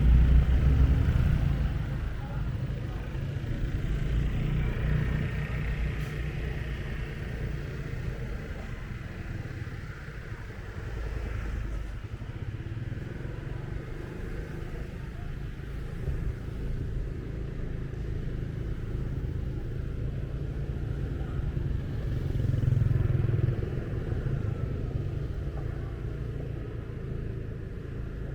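Motorbike engine running while riding, with street traffic around it. It is louder at the very start and swells briefly again about 23 seconds in.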